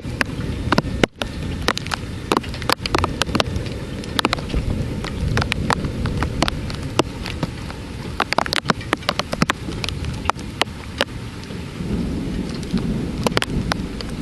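Heavy thunderstorm rain, with many sharp drops striking a hard surface close to the microphone over a steady hiss. A low rumble of thunder runs underneath and swells near the end.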